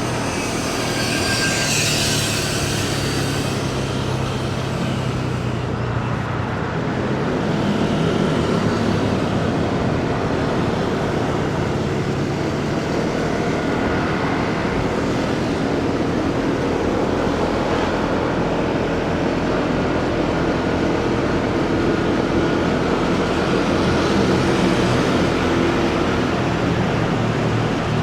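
Motorcycle engine running steadily while riding in city traffic, with road and wind noise and other passing vehicles. There is a brief hiss about two seconds in.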